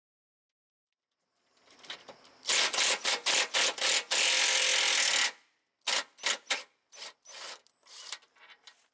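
A hand ratchet wrench working a bolt loose: a run of short, raspy ratcheting strokes about three a second, with one longer unbroken ratchet run about four seconds in, then more strokes.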